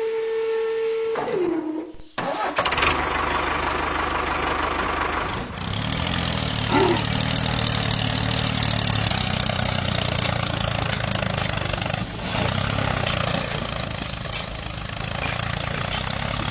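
An engine starts and runs steadily from about two seconds in. Before that there is a short held tone that slides down and cuts off.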